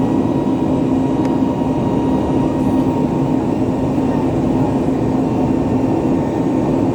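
Steady cabin noise inside a Boeing 737 MAX 8 airliner: the CFM LEAP-1B jet engines and airflow running as a constant rumble with a steady low hum.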